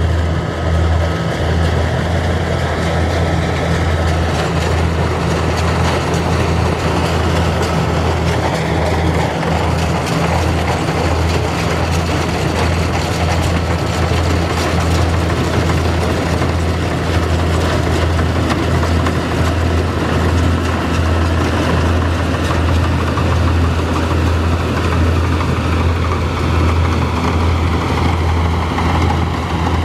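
Kubota combine harvester's diesel engine running steadily at a constant pitch, with a deep, even hum and a haze of machinery noise above it.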